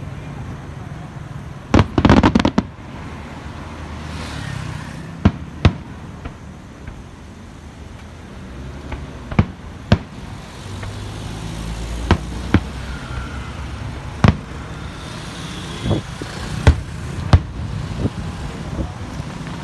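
Aerial fireworks shells bursting: about a dozen sharp bangs spaced a second or more apart, with a quick crackling cluster about two seconds in, over a low steady rumble.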